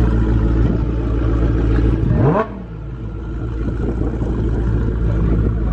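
Car engine running, with a single sharp rev about two seconds in that climbs quickly in pitch, then cuts off and falls back before building again.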